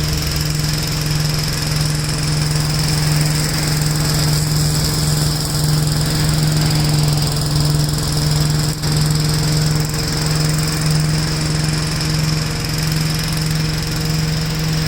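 Engine of a 1969 Gravely LI walk-behind tractor running steadily at high speed, with a constant high whine over the engine note.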